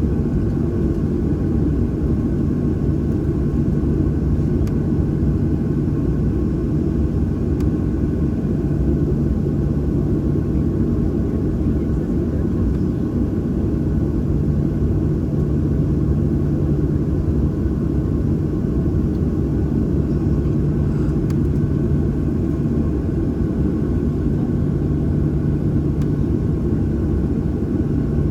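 Boeing 737-800's CFM56-7B turbofan engines running steadily, heard inside the passenger cabin as a continuous low rumble with a steady hum.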